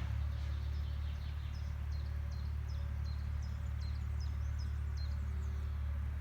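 Agricultural machine's engine running with a steady low drone, while a small bird sings a run of short, high chirps over it.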